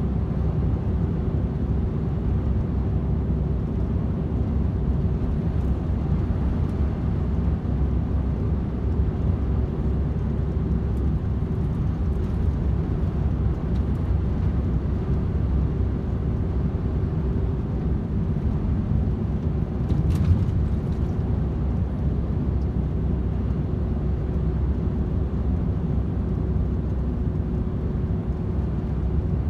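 DAF XF 510 truck with its PACCAR MX-13 six-cylinder diesel running at steady motorway cruise: a continuous low engine drone mixed with tyre and road noise, a faint steady hum running through it, and a short click about twenty seconds in.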